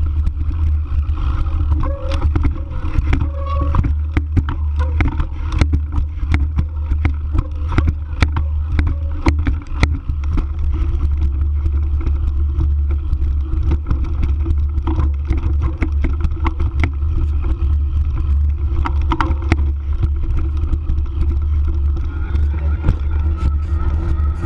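E-mountain bike ridden over a rough forest trail: steady wind rumble on the microphone, with frequent irregular clicks and rattles from the bike.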